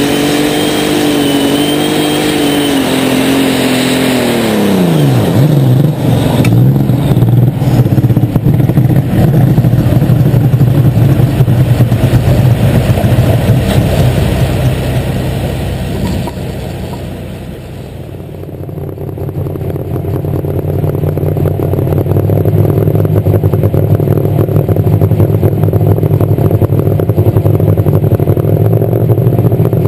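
Turbocharged diesel engine of a Light Super Stock pulling tractor, heard up close on board, running at high revs with a wavering pitch. About five seconds in the revs fall steeply. The engine keeps running loud and rough, eases briefly near the middle, then settles into steady lower-speed running.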